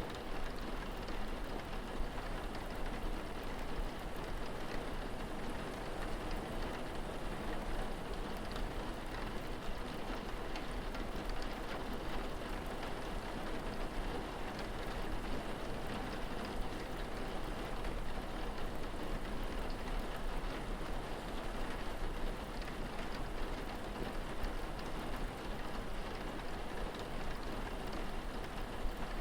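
Steady rain falling, an even hiss of many drops with faint scattered ticks, and a low rumble underneath.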